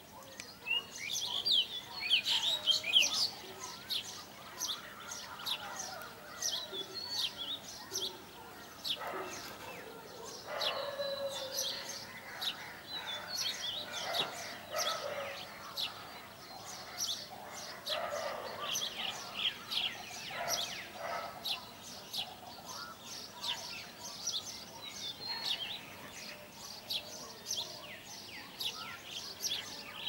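Small birds chirping: a dense, continuous run of short, high chirps and tweets, loudest about two to three seconds in.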